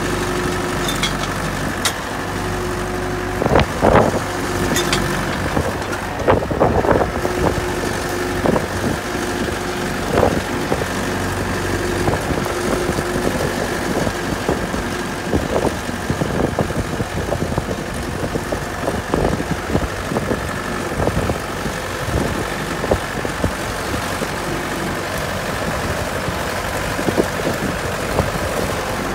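Tractor engine running steadily, with a few short louder knocks and clatters over it.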